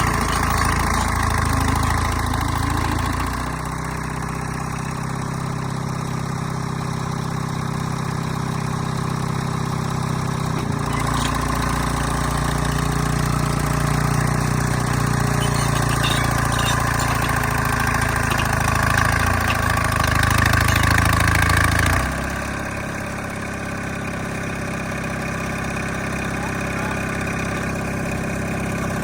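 Allis-Chalmers HD5 bulldozer's diesel engine running while the dozer works to push a stump, its note shifting with load at about 3, 11 and 22 seconds in, then settling lower and quieter.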